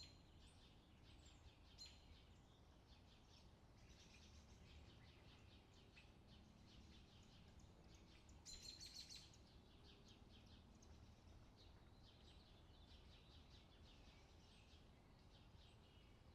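Faint outdoor summer ambience: many small birds chirping over a steady low background rumble, with a brief louder burst of chirping about halfway through.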